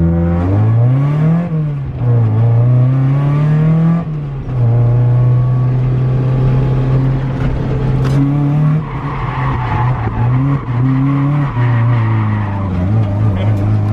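A drift car's engine running hard: the revs rise and fall twice, then hold fairly steady at high revs, with tyre squeal for a few seconds past the middle.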